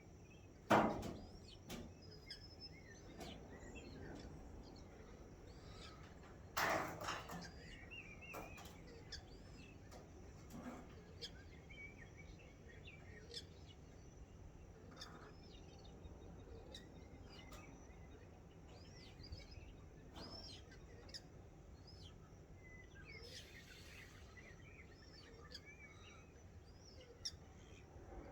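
Morning bird chorus: many birds chirping and calling in short notes throughout, over steady low background noise. Two louder sounds stand out, about a second in and again near seven seconds.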